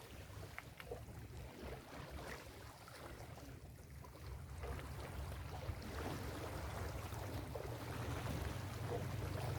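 Ocean surf on a beach: a low, even wash of waves that swells gradually louder toward the end.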